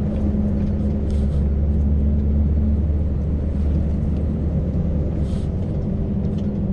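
Scania V8 truck engine running under way with road noise, a steady low drone that strengthens about half a second in and eases back a little past five seconds, with two brief hisses.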